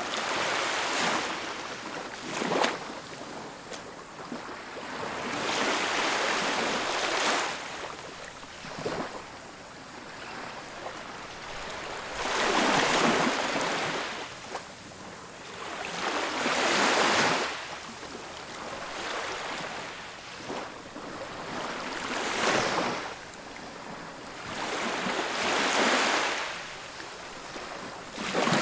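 Ocean waves breaking on a beach, each swell of surf rising to a wash and falling back every few seconds.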